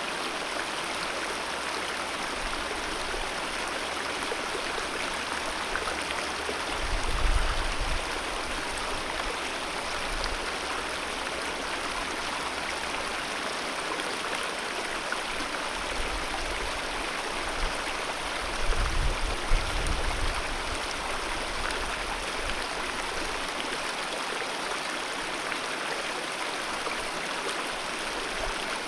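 Alpine mountain river flowing, a steady even wash of water. Two brief low rumbles come through, about seven and nineteen seconds in.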